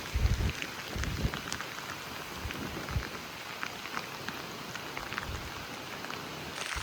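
Heavy typhoon rain falling steadily, with many individual drops ticking, and a few low thuds near the start and about three seconds in.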